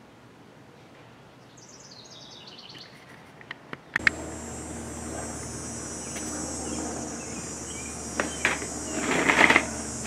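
A bird's quick descending run of high chirps over quiet background, then, after a sudden change, a steady high hiss with a low hum. A few sharp clicks and a brief louder noise come near the end.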